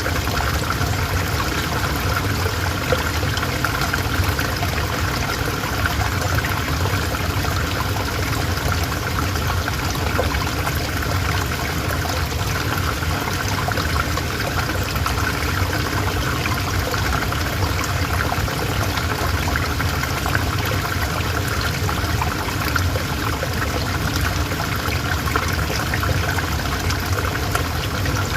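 River water flowing over stones in a steady, unbroken rush.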